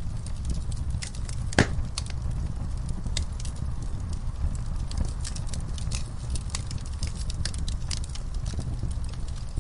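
Wood fire burning with irregular crackles and pops over a steady low rumble of flame, one sharper snap about a second and a half in.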